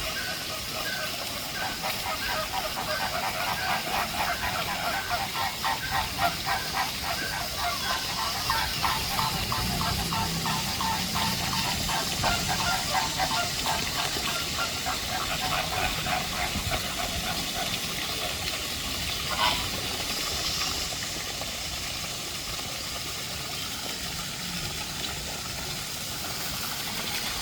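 Birds calling in quick runs of short repeated notes over a steady hiss; the calls fade out about two-thirds of the way through, leaving the hiss.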